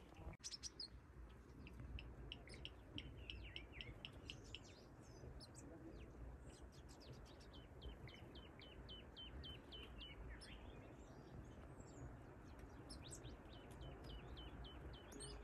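Birds chirping: many short, high calls, including runs of evenly repeated chirps about three or four a second in the middle and again near the end, over a faint low rumble.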